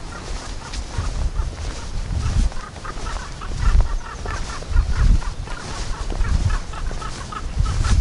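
Birds calling in short repeated notes, over a low, uneven rumble on the microphone.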